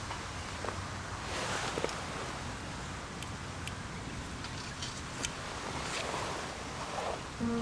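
Steady outdoor ambient noise with a few light ticks and soft rustles; music starts near the end.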